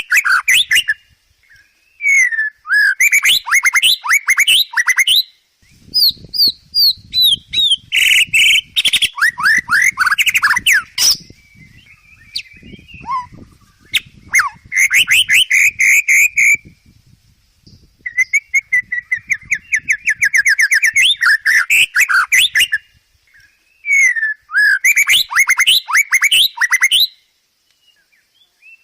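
White-rumped shama (murai batu) singing: loud bursts of fast, repeated whistled notes and trills, about six phrases with short pauses between them.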